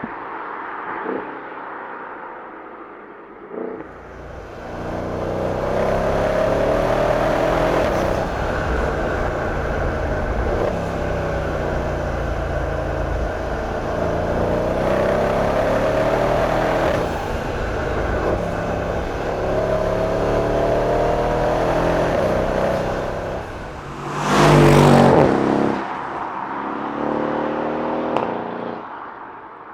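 2014 Mercedes-Benz CLS63 AMG Shooting Brake's twin-turbo V8 accelerating hard, its pitch climbing through several gears and dropping back at each upshift. Near the end comes a short, very loud rush, then the engine fades away.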